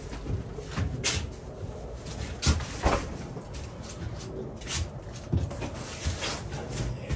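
Irregular knocks and thumps of cardboard boxes being handled, with footsteps on the wooden floor of an enclosed cargo trailer. The loudest thumps come about two and a half to three seconds in.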